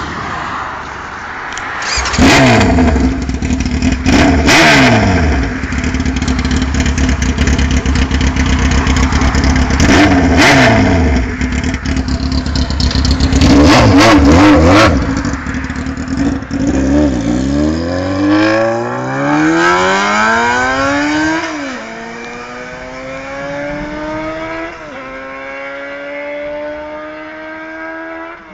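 Yamaha YZF600R Thundercat's inline-four running with no exhaust fitted, loud and raw. It is revved sharply several times over a rough idle, then rises in pitch for several seconds with a couple of gear-change steps, fading with distance.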